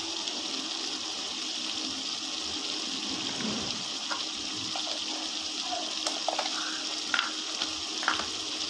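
Chicken pieces sizzling steadily in hot ghee in a wok, with a few small pops and crackles in the second half.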